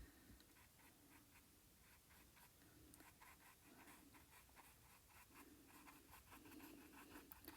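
Faint scratchy dabs and short strokes of a small paintbrush on the painting surface, laying on acrylic paint, repeated irregularly.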